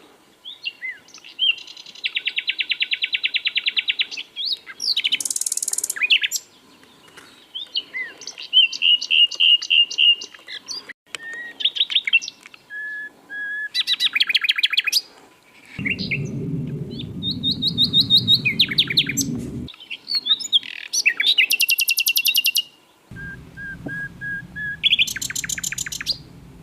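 Common nightingale singing a run of varied phrases, separated by short pauses: fast strings of repeated notes and trills, some very high and buzzy, and short series of steady whistled notes. A low rumble sits under the song twice in the second half.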